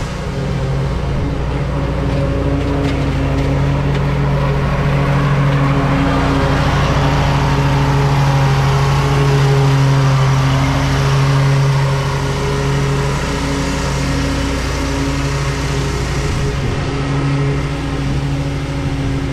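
Lawn mower engine running steadily while cutting grass, a little louder for a few seconds in the middle.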